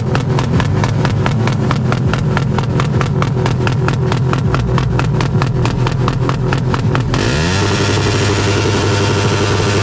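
Modified car engine and exhaust revved hard, stuttering in rapid even pops about six times a second, as when held against a rev limiter. About seven seconds in, the stutter stops and the revs sweep up and hold steady.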